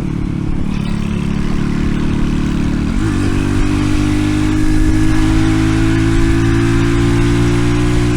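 RPS Racer 140 minibike's single-cylinder four-stroke engine running under way through a stainless side-exit exhaust. There is a brief break in the note about three seconds in, then the revs climb slowly.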